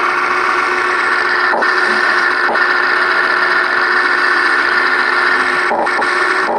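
The electric drive of a Huina 1580 RC excavator running: a steady mechanical whine from its small motors and gears, broken by a few brief dips.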